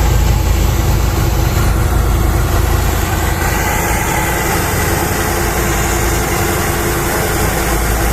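Boat engine running steadily at a constant pitch, a deep even hum.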